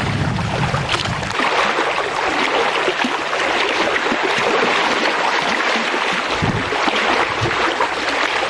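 Steady rush of running water, with wind buffeting the microphone for about the first second.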